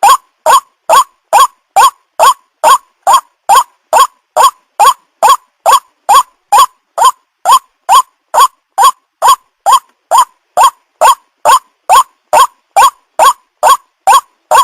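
White-breasted waterhen (burung ruak-ruak) calling over and over, a fast, even series of short harsh notes, about two and a half a second, each rising sharply in pitch.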